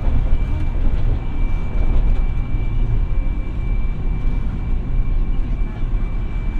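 Hiroden 700 series tram No. 701 running, heard from inside the car: a steady low rumble of wheels on the track with a thin, steady high-pitched tone above it.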